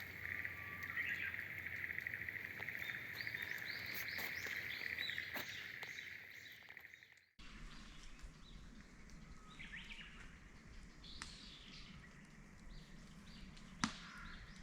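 Woodland ambience: a steady high insect drone with small birds chirping over it. It cuts off abruptly about seven seconds in, leaving fainter bird calls and a single sharp click near the end.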